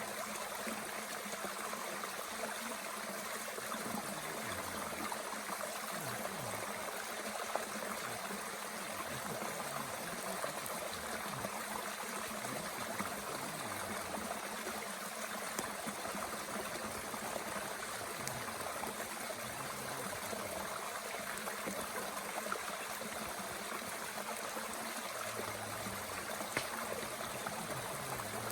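Mountain stream running steadily, with a few faint pops from a wood fire in a Bushbox twig stove.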